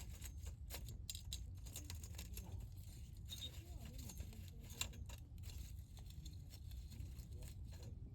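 Wood campfire crackling, with irregular small pops and snaps over a low steady rumble, and one sharper, louder pop a little before five seconds in.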